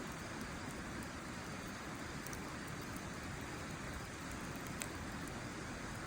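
Wood fire burning in a fire pit, giving a few faint crackling pops, the clearest near five seconds in, over a steady low rushing noise.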